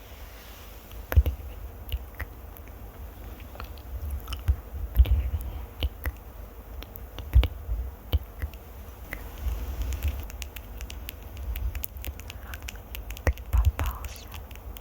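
Close-miked ASMR triggers: irregular crackly clicks and scratches on or right at the microphone, with soft low thumps from the mic being handled.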